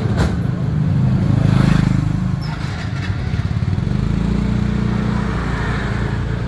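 Street traffic: motor vehicle engines running close by, a low steady hum that swells twice as vehicles pass.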